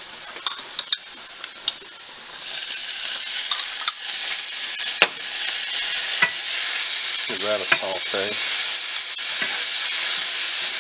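Diced onions and minced garlic sizzling in a hot nonstick frying pan while a wooden spatula stirs them around. There are a few light clicks at first, then the sizzle swells about two seconds in as the garlic goes in and is stirred, and it holds steady after that.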